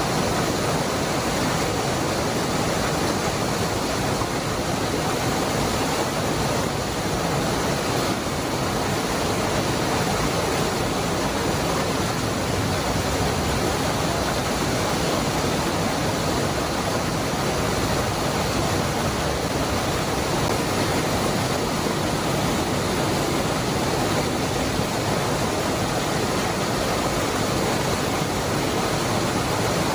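Cascada del Hervidero waterfall rushing in a steady, unbroken roar of falling water, even from start to end with no other sounds.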